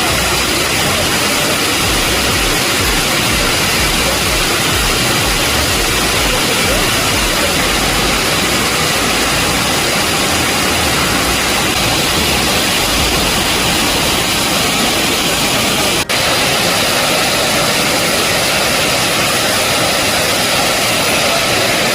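Heavy hailstorm: a loud, steady hiss of hail and rain falling, with a momentary break about two-thirds of the way through.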